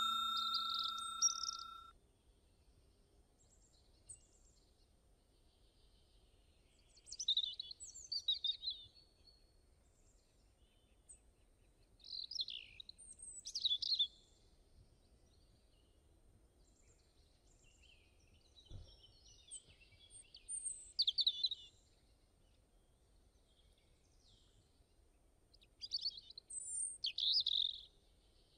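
A chime from a subscribe-button animation rings out during the first two seconds. Then birds chirp in four short bursts of quick high chirps, roughly one every six seconds, over a faint hiss.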